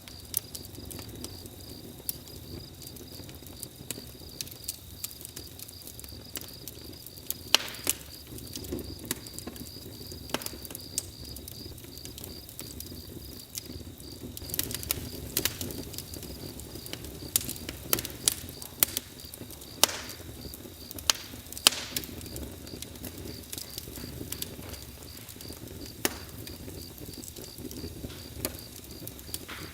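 Wood fire crackling and popping irregularly over a low rumble, with several loud sharp pops. Crickets chirp steadily throughout.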